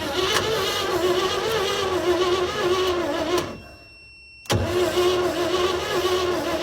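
C60 dump truck's engine cranking on the starter, worked with a cheater wire, without catching: two cranks, the first about three and a half seconds, then a second after a one-second pause, with a wavering starter whine.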